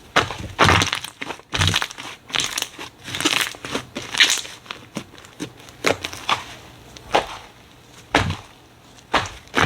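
Slime being squeezed and pressed by hand, giving irregular crunchy, crackling bursts about once or twice a second.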